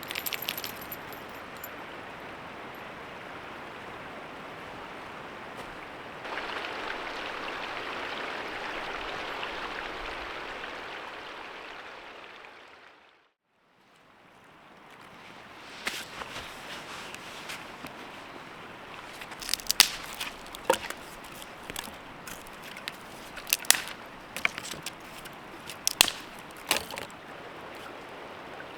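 A steady rushing hiss that grows louder about six seconds in, fades out to silence about halfway through and fades back in. In the second half, sharp irregular pops and cracks from a burning wood fire stand out above the hiss.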